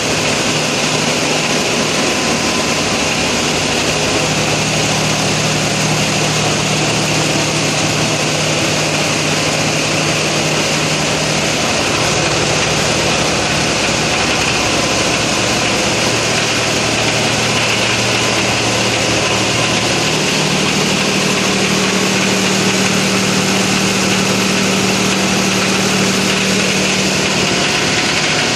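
Ferry's marine diesel engines running steadily in the engine room: a loud, even din with a low hum that shifts a little in pitch a few times.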